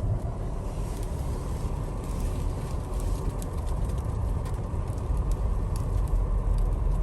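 Cabin sound of a 2021 Ford Explorer ST driving slowly on snow: a steady low rumble of tyres and drivetrain, with scattered faint ticks of ice and snow hitting the car.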